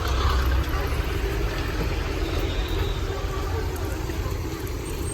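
Motor vehicle engine running with a steady low rumble, amid roadside street noise.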